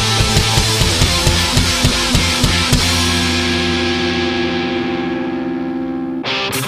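Hard rock music with drums and distorted guitar: quick, even drum hits for about three seconds, then a held chord ringing out with a fading cymbal wash that cuts off shortly before the end.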